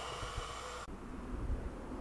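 Tail of a train that has just passed on the rails: a rolling hiss with a few steady ringing tones, cut off abruptly a little under a second in. After that there is only a low rumble.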